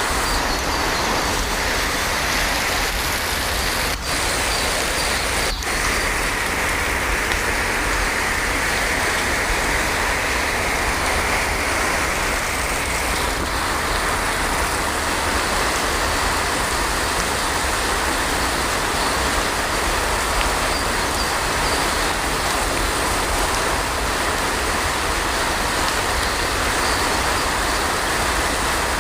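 Heavy rain falling steadily, an even hiss with a deep low rumble beneath it, broken only by two very brief dips a few seconds in.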